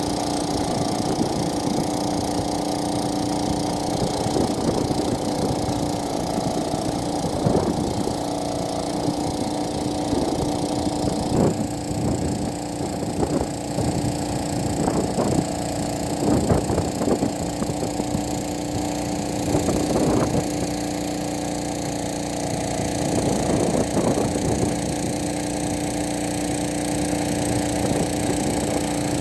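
Agricultural spraying drone's rotors humming steadily on one held pitch, with irregular short swells of rushing noise over it.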